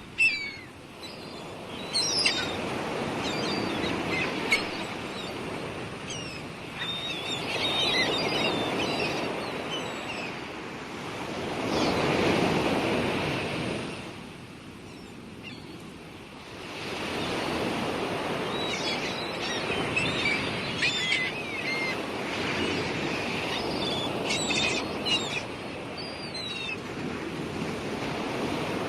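Sea waves washing onto the shore, rising and falling in slow surges every few seconds, with gulls calling in short high cries, in clusters near the start, around a quarter of the way in, and again in the second half.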